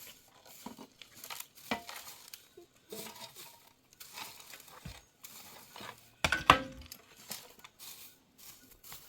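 Dishes and utensils being handled, with scattered clinks and knocks and one louder clatter that rings briefly about six seconds in.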